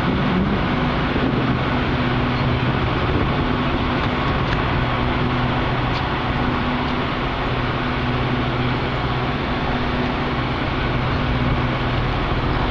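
Metra commuter train's diesel locomotive running steadily: a low engine hum under an even rush of noise.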